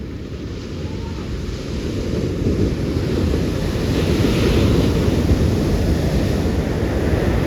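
Ocean surf: a set of big waves breaking and rushing in, the noise swelling from about two seconds in to a peak in the middle and latter part, with wind buffeting the microphone.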